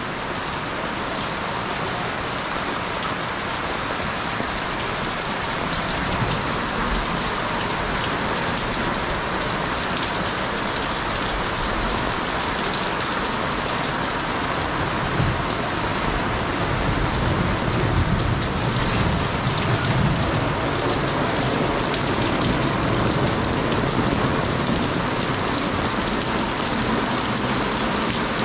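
Heavy rain falling steadily, splashing on roofs and the wet concrete of an alley.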